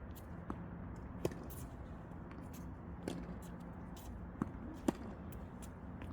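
Tennis balls being struck and bouncing during a rally drill: five or so sharp, separate pops spread irregularly through the few seconds, the loudest two close together near the end, over a steady low hum.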